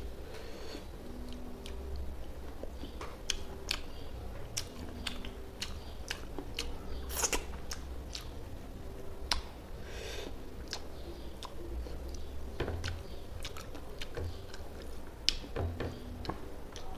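Close-miked chewing of fish curry and rice eaten by hand, with irregular wet mouth clicks and lip smacks.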